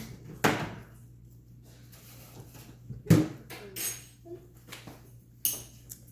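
Dishes and cutlery clinking and knocking while eating: a few separate sharp knocks, the loudest about three seconds in.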